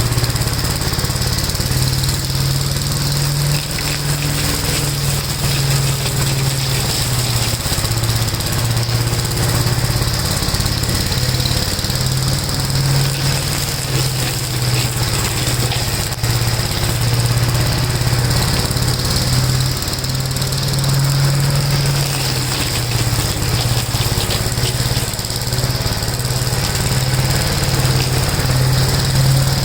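1969 Gravely L-I walk-behind tractor's single-cylinder engine running steadily, holding an even low note throughout.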